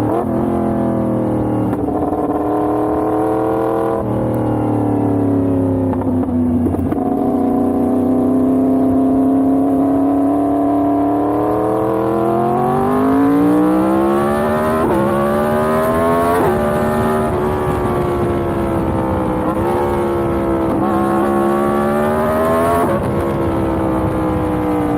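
Yamaha MT-10's crossplane inline-four engine while riding. Its pitch falls with short breaks in the first seconds as it shifts down, holds steady, then rises under acceleration with quick breaks as it shifts up. Near the end the rider eases off the throttle.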